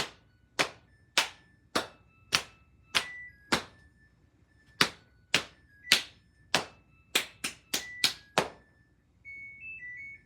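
Sharp claps at a steady beat, about two a second, with a few uneven gaps. Faint high tones sound between them. Near the end the claps stop and a short, high electronic melody of a few notes plays.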